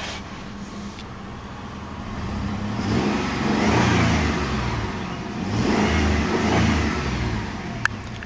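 2002 Jeep Liberty's 3.7-litre V6 revved twice in neutral from idle. The engine pitch rises and falls back each time, with the revs peaking about four seconds in and again about six and a half seconds in.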